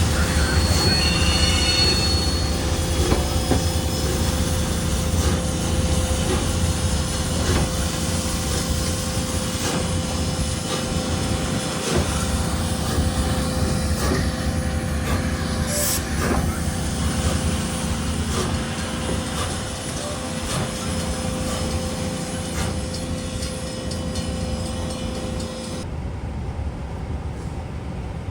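Train rolling past: a steady low rumble of wheels on rail with repeated clicks and a brief high wheel squeal about a second in, slowly fading.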